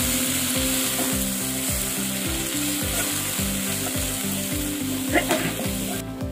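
Ginger, green chilli and coriander masala frying in oil in a kadai, sizzling steadily. The sizzle cuts off just before the end.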